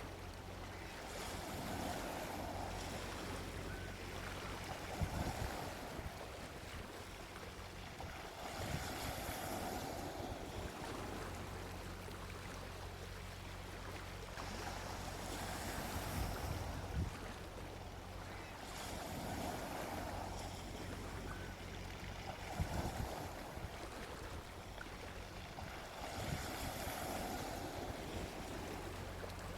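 Gentle sea waves breaking and washing onto a beach, the surf swelling and easing every few seconds.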